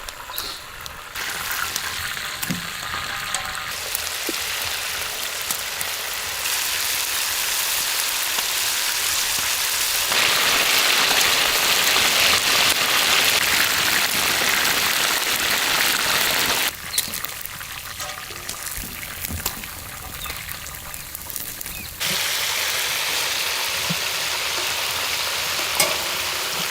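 Chicken legs frying in hot oil in a pan: a steady sizzle that jumps up and down in loudness in sudden steps several times, loudest in the middle stretch.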